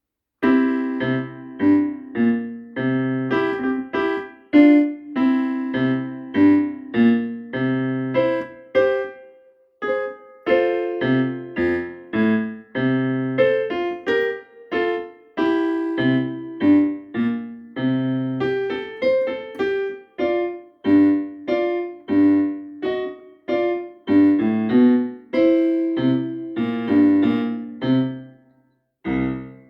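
Piano playing a boogie-style piece: a repeating low left-hand bass figure under a right-hand melody of short struck notes, with a brief break about ten seconds in and another near the end.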